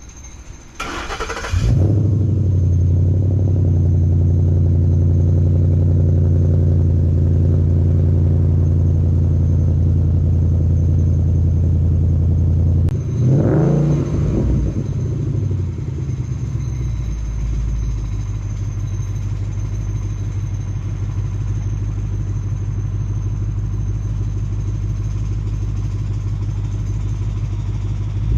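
2012 Ford Mustang GT's 5.0-litre V8 cranked on the starter and catching about two seconds in, then running at a steady high idle through its exhaust. About halfway through it is revved once, rising and falling, and then settles to a lower, quieter idle.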